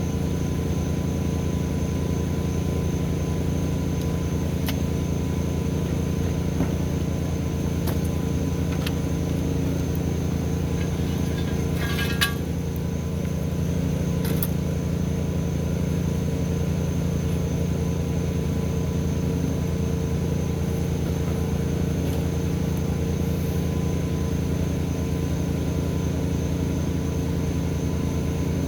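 An engine running steadily at a constant speed, with a few sharp clicks and a short metallic ring about twelve seconds in.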